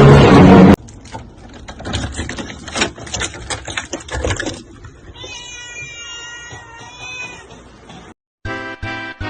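A cat meowing in one long, drawn-out, slightly wavering call lasting about three seconds, preceded by scattered knocks and rustling. Music cuts off under a second in and another tune starts near the end.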